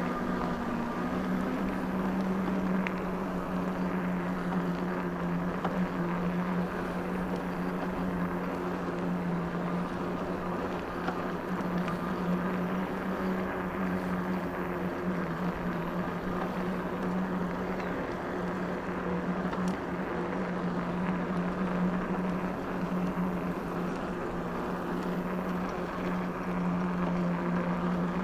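Electric bike motor running with a steady hum while riding, over a rush of wind and tyre noise.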